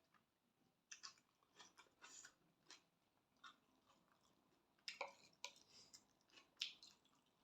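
A person eating spicy glass noodle salad close to the microphone: soft, irregular chewing with wet mouth smacks and clicks, a few louder ones about five and six and a half seconds in.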